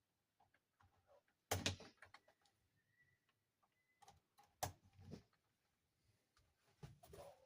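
Plastic toy dollhouse parts being handled and fitted together: a few sharp clicks and knocks, the loudest about a second and a half in and again about four and a half seconds in, with a small cluster near the end and light taps between.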